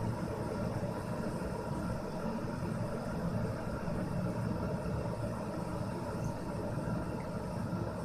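ORION ceramic electric kettle heating about a litre of water, a steady low rushing noise of the water beginning to boil.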